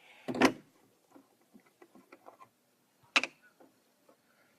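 Handling noises from a plastic stop-leak bottle and the radiator filler: a knock about half a second in, a sharp click about three seconds in, and light clicks and rustles between.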